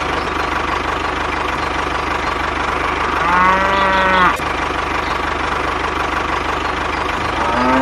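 Small engine running steadily throughout. About three seconds in, a cow moos once for about a second, and another pitched call starts near the end.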